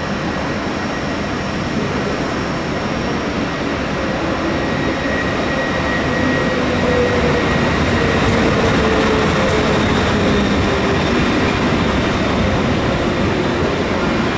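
ÖBB Railjet train running into the station, a steady rumble of wheels and running gear with a motor whine that slowly falls in pitch as it slows, growing a little louder as it comes closer.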